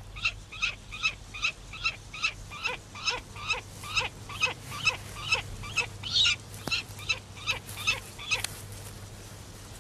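Bird calling in a fast series of short, sharp, high calls, about three a second, that stop near the end.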